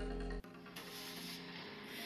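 Music played back through a small Bluetooth speaker. About half a second in it cuts abruptly from a bass-heavy passage to a quieter, thinner one with the deep bass gone.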